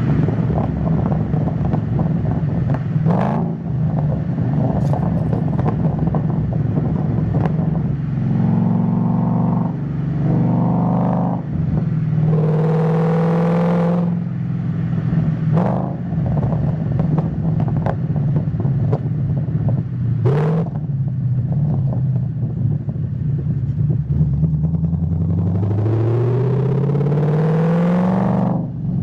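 Ford Mustang GT S197's V8 engine running while the car is driven, mostly holding a steady note with several short rises in revs, and a long steady climb in revs near the end as it accelerates.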